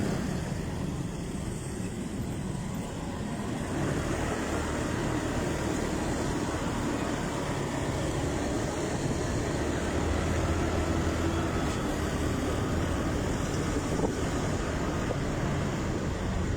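Motorcycle engine running at a steady pace on the road, with wind rushing over the microphone.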